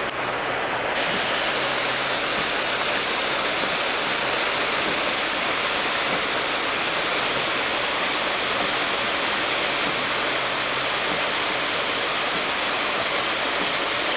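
Storm runoff from the fields rushing down a flooded country lane like a river, a steady unbroken rush of water.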